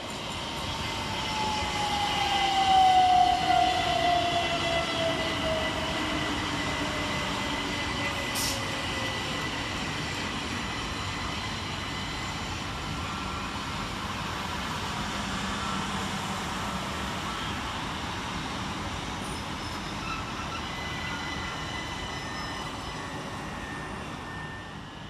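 Two coupled Class 377 Electrostar electric multiple units braking into the platform, their traction motor whine falling steadily in pitch over the first few seconds, then standing with a steady hum.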